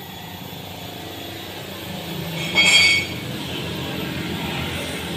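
Toyota Yaris running through an NDK DK-01 V2 aftermarket muffler, its exhaust note a low rumble that slowly grows louder. About two and a half seconds in there is a brief, loud, high-pitched squeal lasting about half a second.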